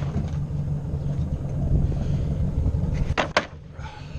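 Ford 600 tractor's four-cylinder engine running steadily with a low rumble. About three seconds in come two sharp knocks, and after them the sound is quieter.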